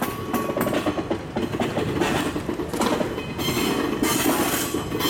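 Kintetsu electric train running slowly along the track, its wheels clacking irregularly over rail joints under a steady rumble, with a faint high whine.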